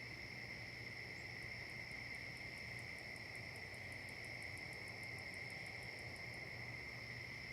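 Fall insect chorus: crickets trilling steadily and unbroken. From about a second and a half in until about six seconds, another insect adds a fast, very high ticking, roughly six ticks a second.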